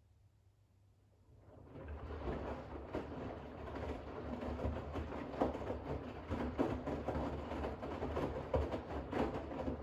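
Bosch WAX32GH1 front-loading washing machine in its rinse: after a brief pause the drum starts turning, and wet towels tumble and slosh in the rinse water over a low motor hum.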